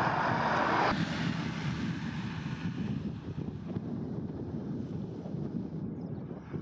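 Jet airliner engine noise that cuts off abruptly about a second in. It is followed by wind buffeting the microphone over a low rumble.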